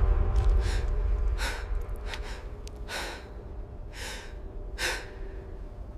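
A person breathing hard: a series of short gasping breaths, about one a second, over a low rumble that fades away after the first few seconds.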